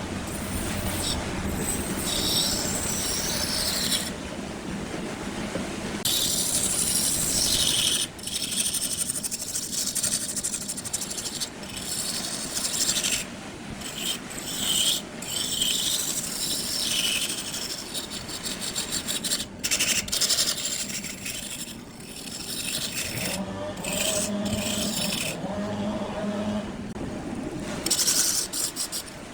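Woodturning on a lathe: a tool scraping and cutting a spinning wood block, giving a rasping noise that varies in strokes and breaks off abruptly now and then.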